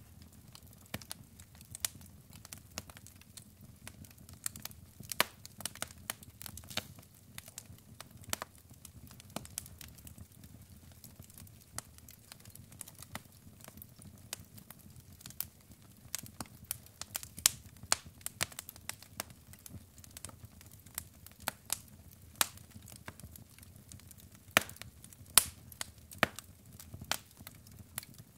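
Wood fire burning in a fireplace: logs crackling and popping in irregular sharp snaps over a low steady rumble of the flames.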